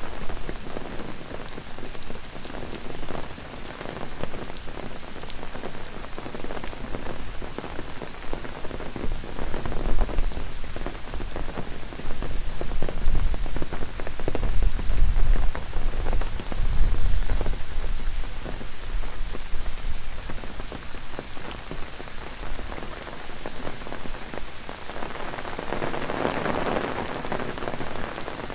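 Heavy rain pattering on an umbrella, with a steady high buzzing of cicadas behind it. A low rumble rises in the middle, and a short broader swell of noise comes near the end.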